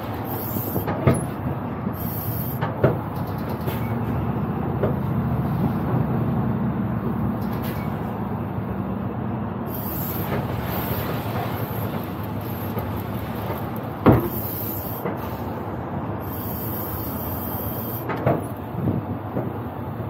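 Loaded semi truck's diesel engine running steadily under a heavy load of copper rod, with a few sharp clunks, the loudest about fourteen seconds in.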